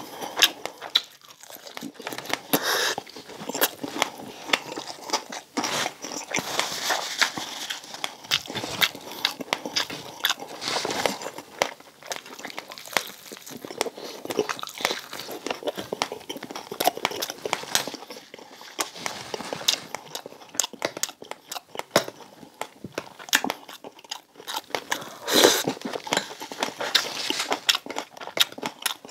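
A person biting and chewing crispy deep-fried pork belly (bagnet), the crackling skin crunching in many sharp, irregular crackles.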